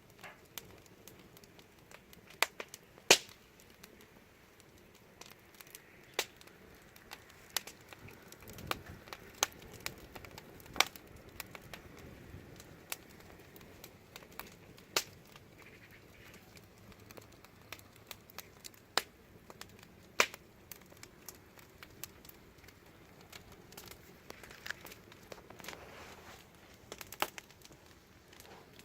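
Wood fire burning with a low hiss and irregular sharp pops and crackles, a few of them much louder than the rest.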